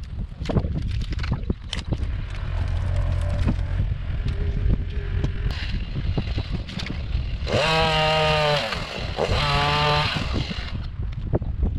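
Chainsaw throttled up twice in short revs about eight and ten seconds in, each rising in pitch, holding, then dropping back, after idling faintly. Wind rumbles on the microphone, with scattered knocks and clicks.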